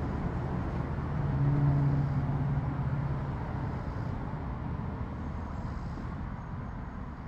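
Steady low rumble of a motor vehicle, with a low hum that swells about a second in and fades away after about three seconds.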